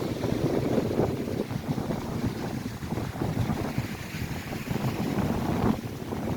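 Strong gusting wind buffeting the microphone, with lake waves crashing and churning underneath.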